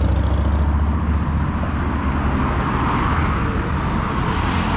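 Motor traffic passing, a steady rumble of engines and tyres that swells briefly about three seconds in.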